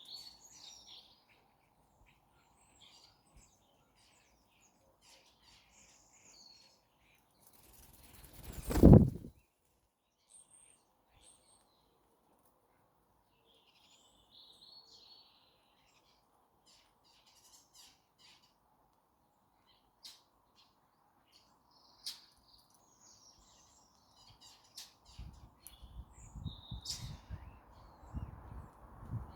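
Birds chirping in short scattered calls at a garden bird feeder. A single loud thump comes about nine seconds in, and a run of low knocking and rustling against the feeder camera starts near the end.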